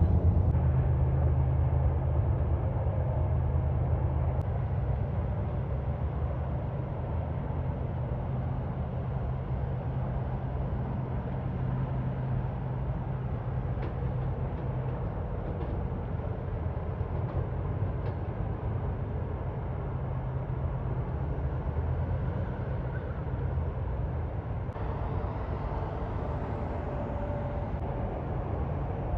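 Steady low engine hum with road noise from a heavy vehicle. It is loudest at the start, eases off over the first few seconds, then holds steady.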